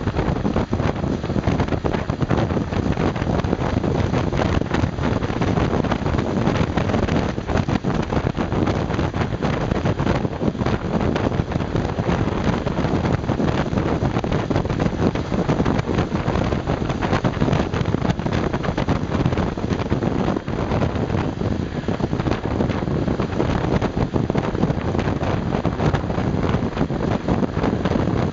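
Honda Super Cub 110's single-cylinder four-stroke engine running steadily while riding uphill, with wind rushing over the microphone.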